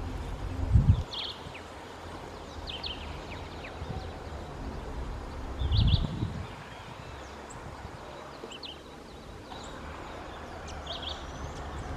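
Rufous-crowned greenlet calling: short clusters of high notes, repeated every second or two. Two low thumps, about a second in and about six seconds in, are the loudest sounds, over a steady low rumble.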